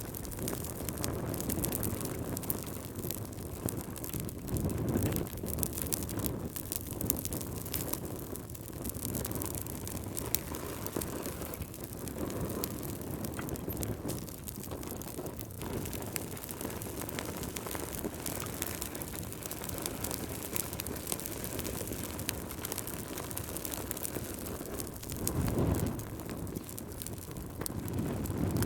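Wood fire crackling in a fireplace, with many small sharp pops over a steady hiss and low swells that rise and fall, the strongest about five seconds in and near the end.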